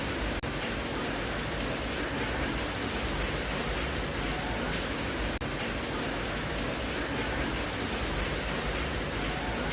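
Steady rain, an even hiss with no pattern or change, broken by brief dropouts about half a second in and about five and a half seconds in.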